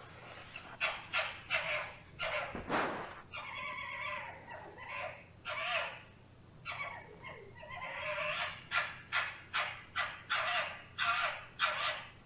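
An animal giving a series of short, pitched calls, more scattered at first, then coming quickly and regularly at about two to three a second in the second half.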